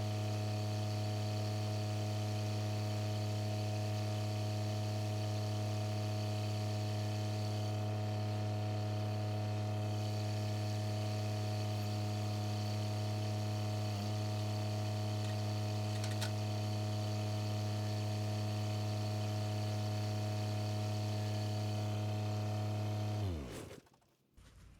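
A John Deere 1025R compact tractor's three-cylinder diesel engine runs at a steady speed. Near the end it is shut off and its pitch falls quickly as it winds down to a stop.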